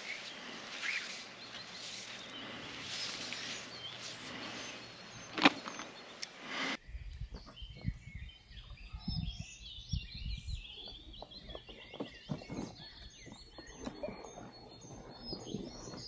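A steady outdoor hiss with one sharp click about five seconds in. Then, after an abrupt change, many small birds chirp over scattered low knocks and rustles.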